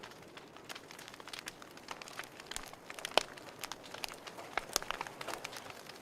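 Fireplace fire crackling: irregular pops and snaps over a soft hiss, the sharpest snap about three seconds in.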